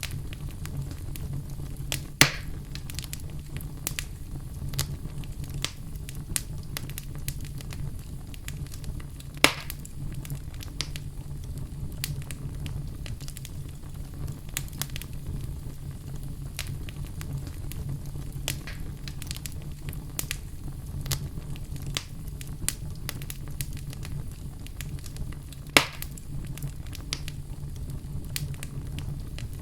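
Wood fire burning in a fireplace: a steady low rumble with constant small crackles, and three loud sharp pops, about 2, 9½ and 26 seconds in.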